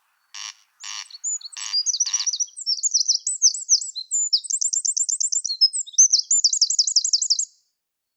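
Songbird singing a high, fast, varied song full of rapid trills. It follows a few short harsh croaking notes in the first two seconds, and the song stops abruptly near the end.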